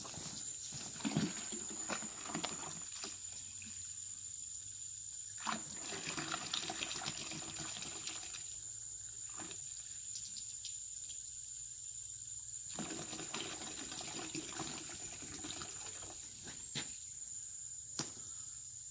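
Water running from a tap or hose to rinse the last of a thick truck wash concentrate out of its container, in spells. It stops for a few seconds three times, with a few small knocks of the container.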